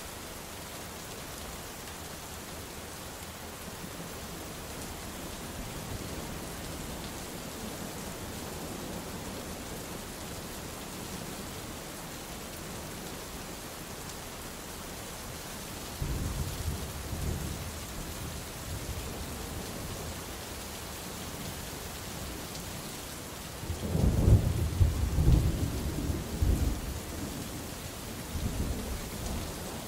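Steady rain falling, with rolls of thunder: a low rumble starts suddenly about halfway through, and a louder, crackling peal comes a few seconds later, trailing off in a smaller rumble near the end.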